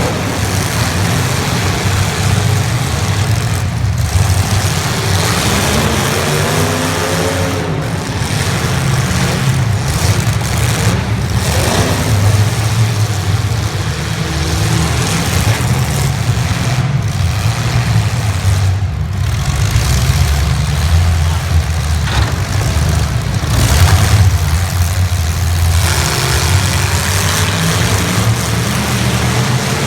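Engines of 1980s stock demolition-derby cars running loud and continuously, revved up and down at intervals.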